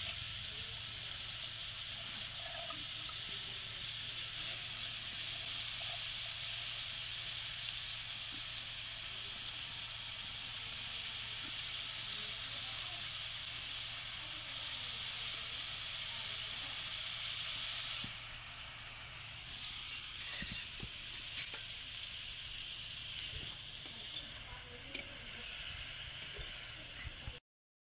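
Shredded cabbage sizzling steadily in hot oil in a clay pot, with a few light knocks of a spoon stirring it later on. The sound cuts out briefly just before the end.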